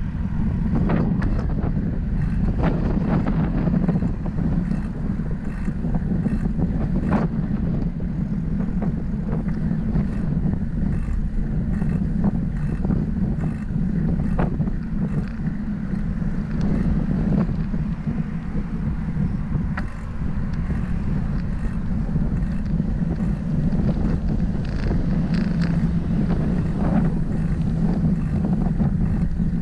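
Wind buffeting the microphone of a camera on a moving bicycle, a steady low rumble, with scattered small clicks and rattles from the ride.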